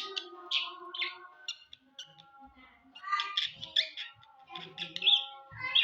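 Budgerigars chirping and chattering: a quick, irregular string of short, high chirps.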